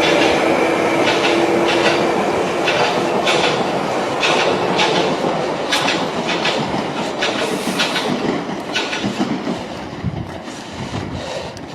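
London Underground Piccadilly line train (1973 Tube Stock) pulling out, its wheels clicking over the rail joints in pairs, the rumble and motor hum fading as it moves away.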